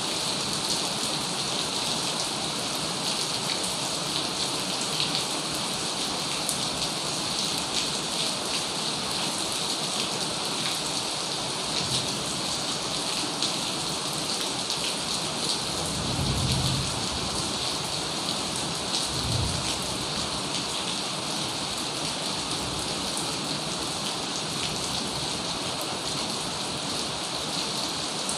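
Heavy rain falling in a steady, dense hiss, with individual drops pattering on a surface. About halfway through, two low rumbles of thunder rise out of it, one after the other.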